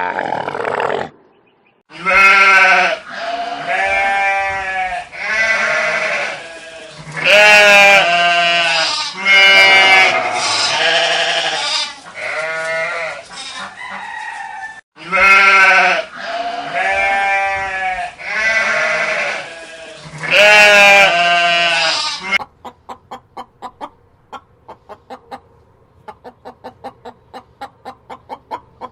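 Goats bleating, one loud wavering bleat after another, each about a second long. About three quarters of the way in they give way to a chicken's rapid, quieter clucking.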